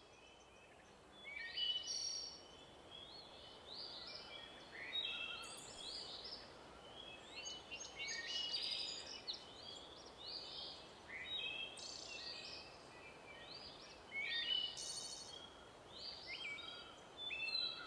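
Several wild birds singing in woodland: a steady scatter of short, high chirps and whistled calls, some louder than others, over a faint outdoor hiss.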